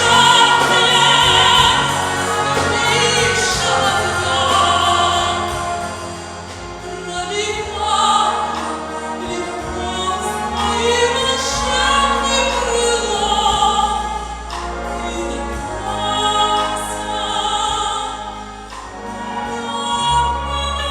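A female singer with strong vibrato singing a slow musical-theatre ballad over orchestral accompaniment, holding long notes.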